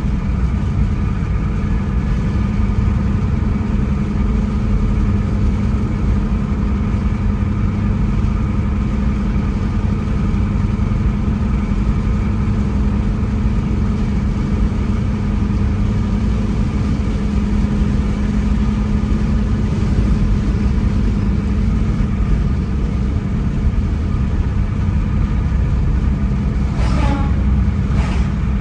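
Car driving along a road: steady engine and tyre rumble. Near the end come a couple of brief sharp sounds with falling pitch.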